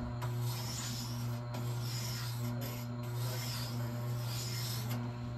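Tormek wet grinder's motor humming steadily while a plane blade is pressed against its turning grindstone, dressed coarse for rough grinding. The steel scrapes with a rasp that swells and eases about three times as the blade is worked across the wheel.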